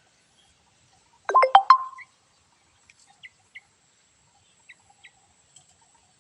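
Bird calling: a loud burst of about four quick notes about a second in, followed by a few faint short chips.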